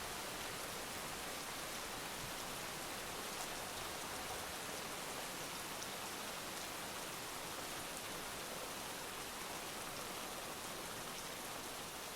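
Heavy rain falling steadily, an even hiss with the faint ticks of single drops.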